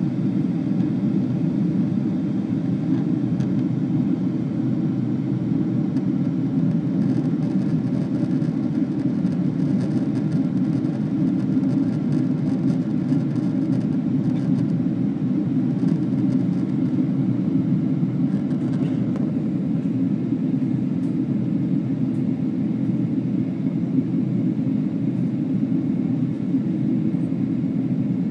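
Airliner cabin noise in flight, heard from inside the passenger cabin: a steady, even low rumble of the engines and the air rushing past the fuselage.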